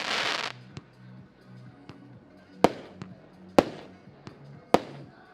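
Diamond Hellfire firework going off: a loud hissing burst at the start, then sharp separate bangs about a second apart, with smaller cracks between them.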